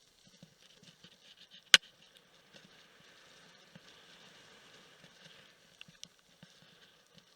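Bicycle riding on a wet trail in the rain: faint patter and scattered small ticks, with one sharp knock a little under two seconds in.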